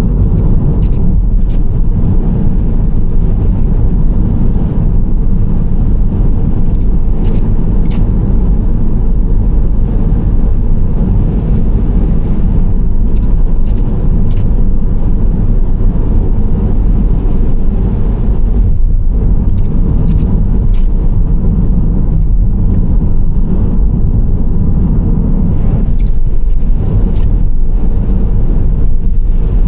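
Nissan Serena C25 minivan driving along at a steady pace: a continuous low rumble of engine and tyre road noise, with faint light ticks now and then.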